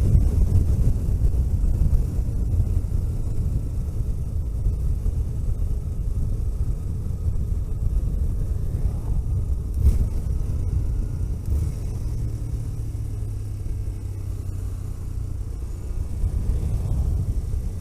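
A car driving along a road: a steady low rumble of engine and road noise, with a brief knock about ten seconds in.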